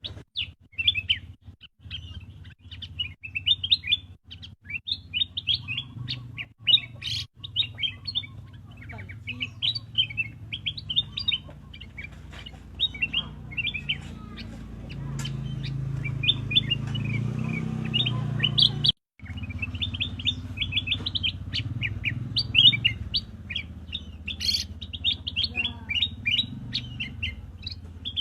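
Black-crested bulbul chirping in quick, continuous runs of short high notes, over a low background rumble, with a brief break about 19 seconds in.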